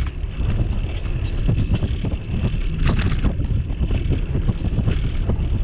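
Wind buffeting the microphone of a bicycle-mounted camera while riding, a heavy uneven rumble, with a few rattling clicks from the bike and mount, the most prominent a little before 3 s in.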